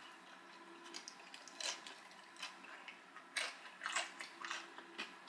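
Faint crunching of a hard, crisp seafood boil egg roll being chewed, in short irregular crunches about every half second to a second.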